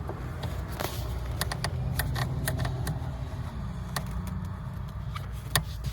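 Lada Granta clutch pedal being pressed and released: scattered clicks and knocks from the pedal mechanism, with a faint squeak that is still there after the pivot was sprayed with silicone lubricant.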